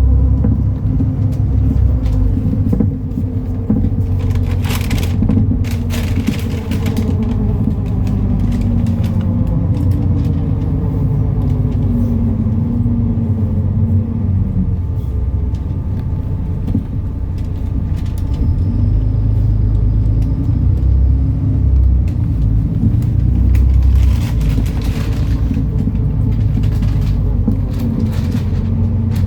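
MAN Lion's City NL293 city bus running under way, its diesel engine giving a deep steady rumble. The engine note slides down in pitch about halfway through, and short bursts of hiss come twice.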